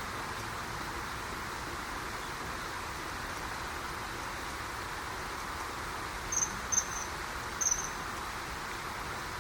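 Common kingfisher giving three short, shrill, high whistled calls about six to eight seconds in, part of a pair calling back and forth. A steady rushing background, most likely the river, runs underneath.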